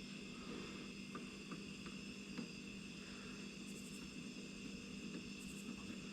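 Faint steady background hum with a high-pitched drone, and a few light clicks.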